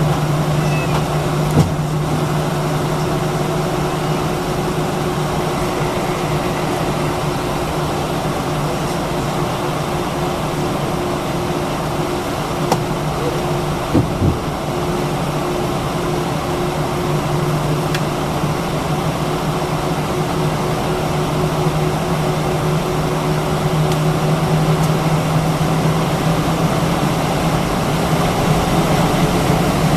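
Steady cabin hum inside an Airbus A319-132, the air-conditioning airflow and aircraft systems running with two low steady tones underneath. A few faint clicks cut through it.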